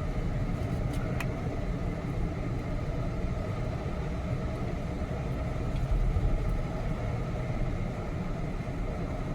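Car driving on the road: steady low engine and road rumble heard from inside the cabin.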